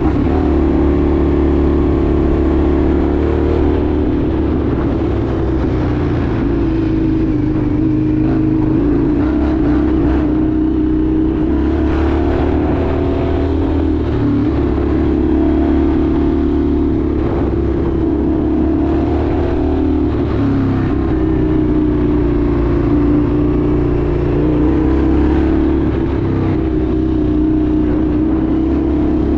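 Indian FTR 1200's V-twin engine running steadily under way, its note rising and falling slightly with the throttle.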